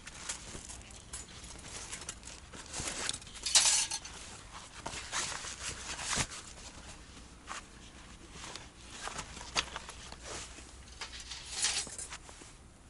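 Camp cookware and gear being handled: irregular clinks and knocks mixed with short rustles.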